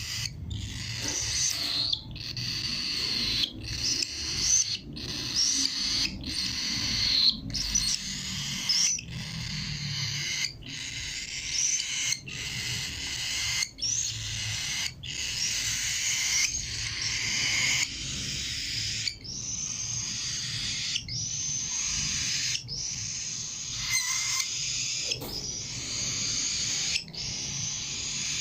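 Cockatiel giving harsh, rasping screeches over and over, each about a second long with brief breaks between them.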